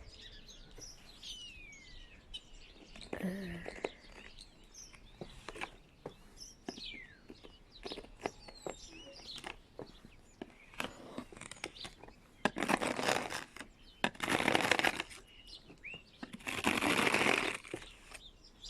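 Small birds chirping and twittering, with scattered faint clicks. Near the end come three louder rough swishing sounds, each about a second long.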